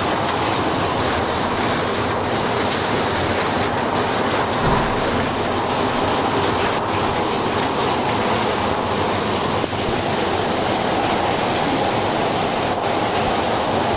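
Heavy wind-driven rain pouring down close by: a loud, steady rush of water.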